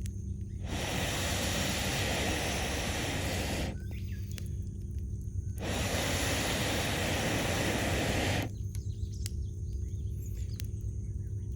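Wood campfire burning: sparse sharp crackles and pops over a steady low rumble, with a broad hiss that comes and goes in stretches of a few seconds.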